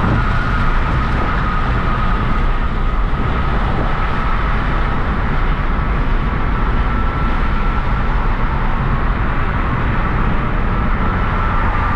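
A Hyundai Genesis Coupe 3.8 V6 under way at a steady pace: steady engine and road noise, with a thin, even whine over it.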